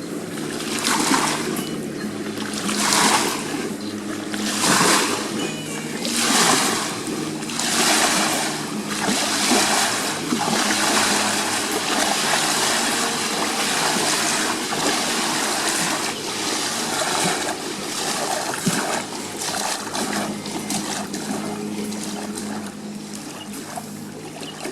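River water splashing against the bank in surges about every two seconds, settling into a steadier wash after about ten seconds, over a low steady hum.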